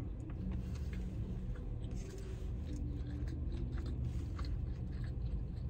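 A person chewing a soft chocolate-coated dessert after biting into it, with small scattered mouth clicks over a steady low hum.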